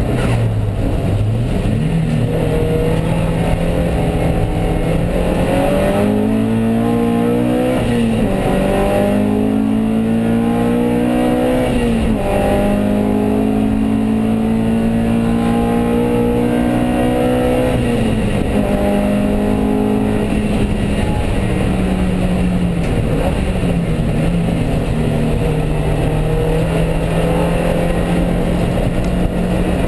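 Alfa Romeo Alfasud race car's flat-four engine heard from inside the cabin under hard driving: the pitch climbs under acceleration and drops back sharply at each gear change or lift, several times, then holds steadier near the end.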